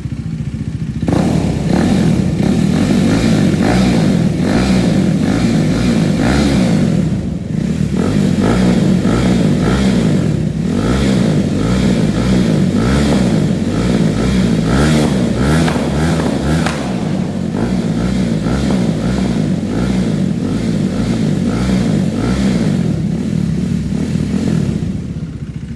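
KTM RC390's single-cylinder engine running loud through a slip-on aftermarket exhaust, revving repeatedly. It comes in about a second in and dips briefly twice in the middle.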